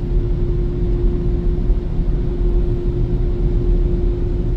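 Ryko slimline car wash dryer blowers running steadily, a loud blowing rush with a constant hum.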